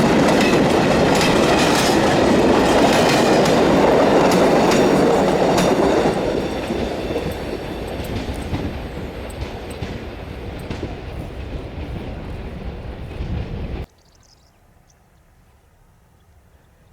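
A train's wagons rolling past with the clickety-clack of wheels over rail joints. It is loud for the first few seconds, then fades as the train moves away, and cuts off suddenly near the end.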